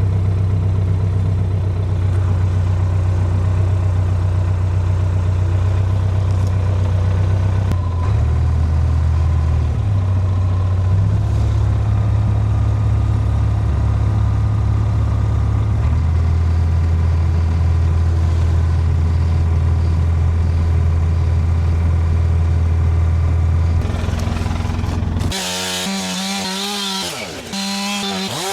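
Large engine running steadily, its note stepping up and down a few times. About 25 seconds in it gives way to a chainsaw running.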